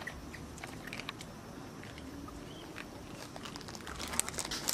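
Monkeys moving about and handling food: scattered soft clicks and rustles, with one brief faint squeak a little past halfway, getting busier near the end.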